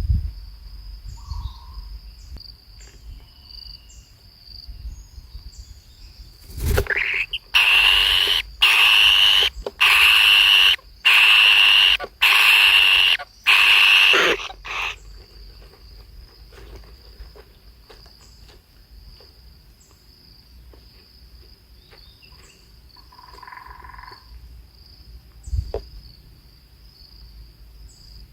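A run of about seven loud, harsh animal calls, each roughly a second long and rising slightly in pitch, over a steady high-pitched insect drone.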